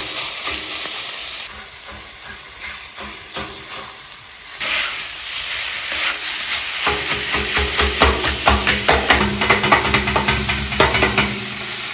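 Food sizzling in hot oil, with quick knocks from a utensil stirring in the pan. The sizzle drops away for a few seconds early on, then comes back. A fast run of knocks starts about seven seconds in and carries on for about four seconds.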